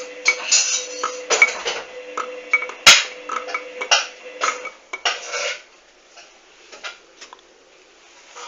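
Hoover washing machine on a duvet wash, its drum turning with a steady motor hum under a run of clinks and knocks, one of them a loud sharp knock about three seconds in. The drum stops about five and a half seconds in, leaving only a few faint ticks.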